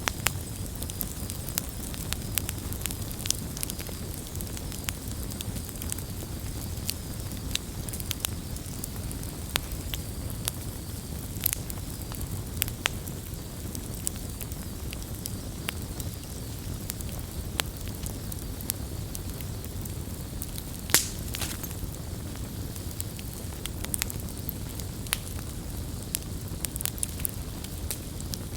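Campfire crackling: a steady low rush of burning with frequent sharp pops and snaps, one louder pop about three-quarters of the way through.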